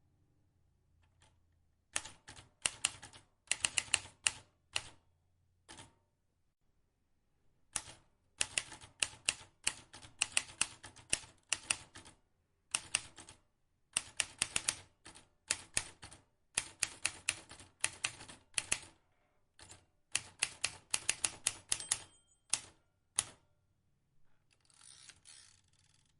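Vintage manual typewriter being typed on: quick runs of sharp key clacks with short pauses between bursts, starting about two seconds in. Near the end comes a softer, rasping mechanical stretch without sharp clacks.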